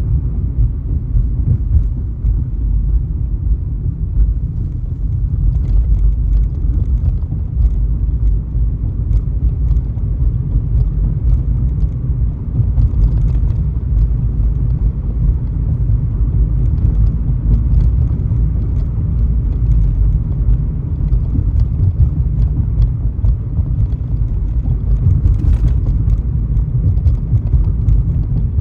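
Steady low rumble of a car driving on the highway, the road and engine noise heard from inside the moving car.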